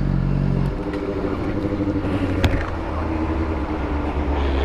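Motorcycle engine running at low revs, its steady note changing about 0.7 s in, with a single sharp click about 2.5 s in.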